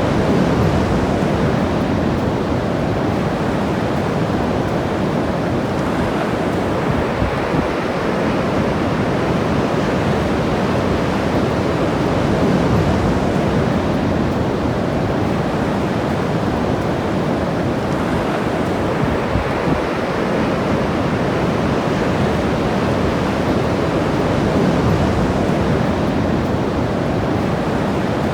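Ocean surf washing steadily onto the beach, swelling a little twice, with wind buffeting the microphone.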